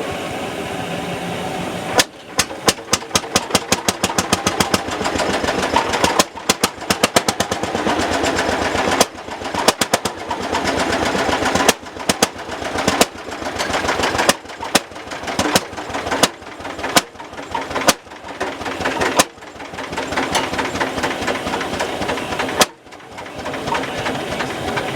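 Lanz Bulldog tractor's single-cylinder hot-bulb two-stroke engine running with evenly spaced, sharp exhaust beats, between about two and six a second, the rate changing at several abrupt cuts. It opens with about two seconds of steady hiss.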